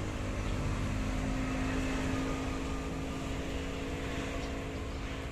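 A steady machine hum, like an engine or motor running at constant speed, with one unchanging tone and a low rumble.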